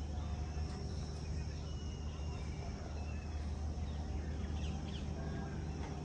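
Open-air ambience: a few short, faint bird chirps scattered over a steady low rumble.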